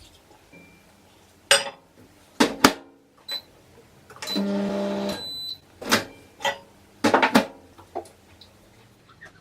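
Kitchen clatter while a breakfast bowl of Weetabix and milk is made: a series of sharp knocks and clicks of crockery and utensils, with a brief steady hum a little over a second long about halfway through.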